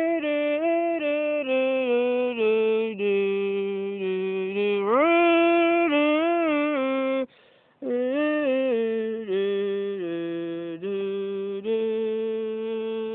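A single voice humming a tune in short held notes, with one upward slide near the middle and a brief pause about seven seconds in.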